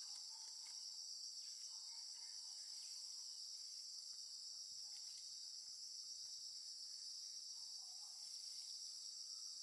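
A steady, high-pitched chorus of insects, such as crickets, trilling without a break, with faint scattered small taps and rustles beneath it.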